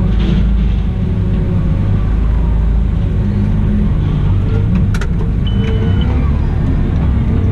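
Cat 972M XE wheel loader's diesel engine running steadily, its pitch gently rising and falling. A sharp click about five seconds in, followed by a brief high beep.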